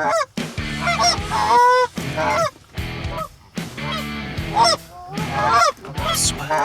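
Canada geese honking, many short calls overlapping in clusters.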